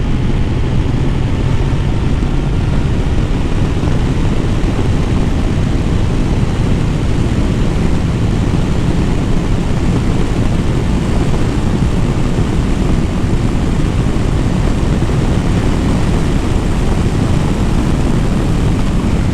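Kawasaki Ninja 1000SX's inline-four engine running steadily while riding, partly buried in a steady rush of wind and road noise.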